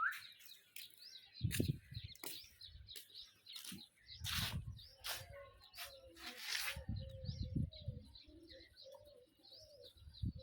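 Birds chirping and twittering in quick little calls throughout, with a couple of louder harsh calls in the middle and a low wavering call in the second half; low thumps come and go underneath.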